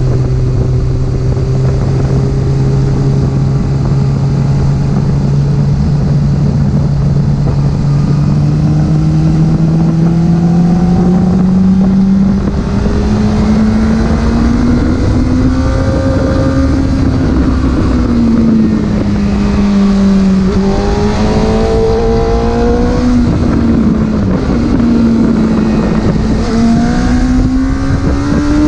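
Porsche engine pulling through the gears: its pitch climbs slowly for about fifteen seconds, then falls and rises several times as the throttle comes and goes, over a steady rush of road noise.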